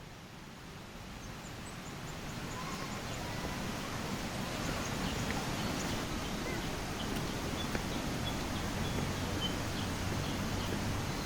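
Jungle ambience: a steady rushing noise that grows gradually louder, with faint high bird chirps repeating over it and a low hum creeping in near the end.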